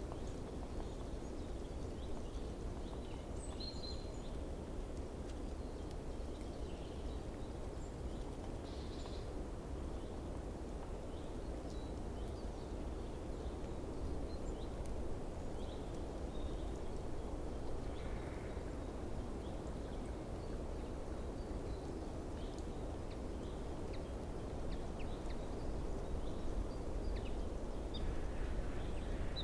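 Steady outdoor ambience with a low rumble, with faint, short, high bird chirps scattered through it.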